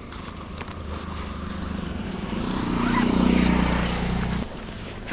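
A motor vehicle engine running, growing louder to a peak about three seconds in, then dropping away suddenly near the end.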